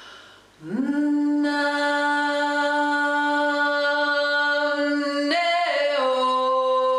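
A woman singing long held vowel tones as a drone: about half a second in, her voice slides up onto one steady note and holds it. About five seconds in, the note wavers and settles onto a slightly lower held note.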